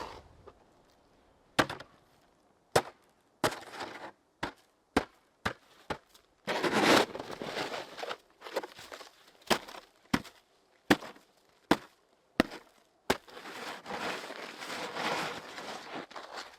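Shovel blade chopping into packed snow in sharp, separate strikes about once a second, with two longer spells of scraping, while a snow shelter is dug out.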